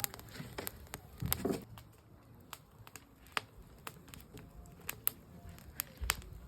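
Campfire wood crackling, with irregular sharp pops and snaps a few times a second.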